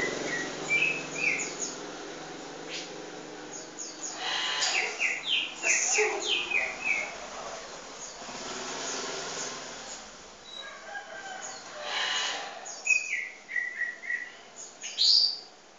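Small birds chirping in short runs of quick, stepped notes, with a rising call near the end, and a few brief rustling bursts in between.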